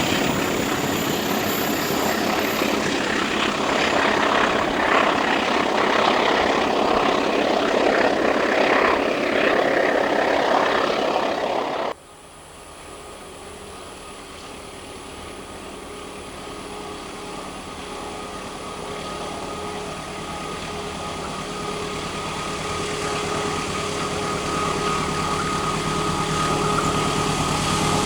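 Loud, even rushing noise of a train running close by, cut off suddenly; then a diesel locomotive approaching, its steady engine hum growing louder.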